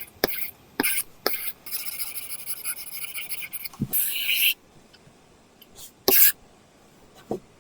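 Apple Pencil tip drawing on an iPad Pro's paper-texture screen film, a dry scratchy sound. A few quick taps and short strokes are followed by a continuous scratchy stroke of about three seconds, then a few separate short strokes and taps.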